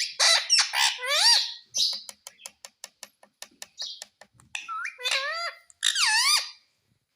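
Pet parrot giving shrill, pitch-bending calls and talking-like chatter, with a quick run of clicks, about six or seven a second, in the middle before two more calls near the end.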